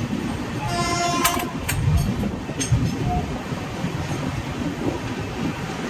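Passenger express train running along the track: a steady low rumble and rattle of the moving coach. About a second in there is a short high tone, followed by a few sharp clicks.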